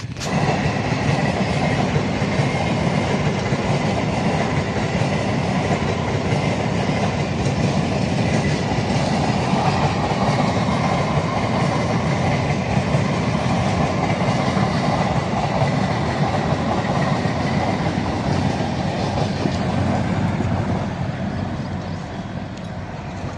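Indian Railways passenger train running past close by: a steady rumble and clatter of the coaches' wheels on the rails, with a faint steady high whine through most of it. It eases off a little near the end.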